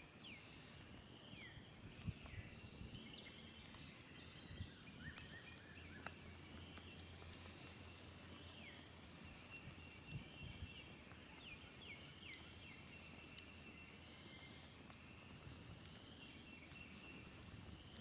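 Faint birdsong, many short downward-sliding chirps and whistles, with a smoldering campfire giving occasional sharp pops and snaps.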